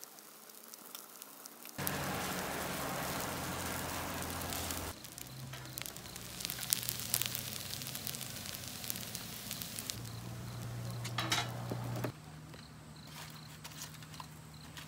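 Wood fire burning in a homemade stainless rocket stove while fried rice sizzles in a wok above it, with sharp clicks and scrapes of a spoon and tongs against the pan. The sound changes abruptly three times.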